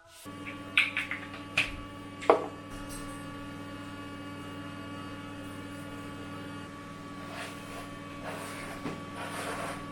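Steady hum of a car idling, heard from inside the parked car. A few sharp clicks and knocks come in the first couple of seconds.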